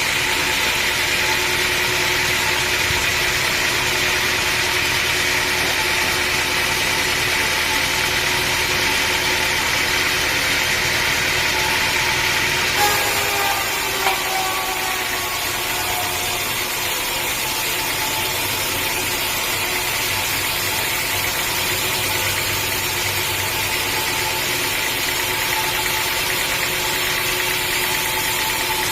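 Sawmill engine running steadily. Halfway through the sound shifts abruptly, with two short knocks.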